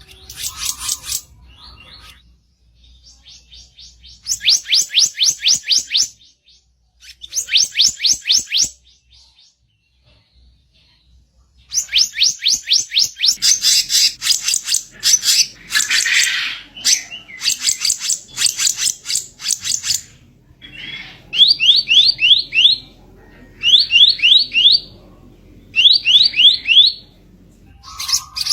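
Kicap ranting songbird singing a harsh chattering song: fast runs of about eight to ten sharp notes a second, in phrases of one to two seconds with short pauses, with a long unbroken stretch in the middle.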